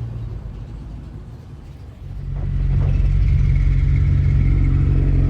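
Motorcycle engine starting up about two seconds in and settling into a steady, loud idle.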